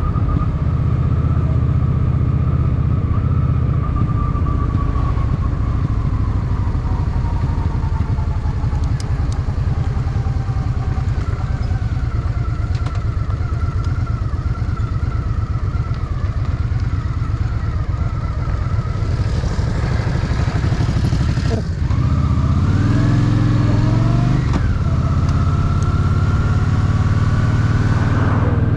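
Honda Shadow VT750's V-twin engine running on the road, slowly easing off in pitch at first. About two-thirds through there is a brief drop, then a rising pull as it accelerates, settling into a steady cruise near the end.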